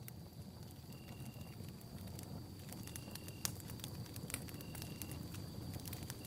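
Campfire burning with a low steady rumble and frequent sharp crackles and pops, one louder pop about halfway through. Behind it a faint steady high tone and a short high chirp repeating about every second and a half.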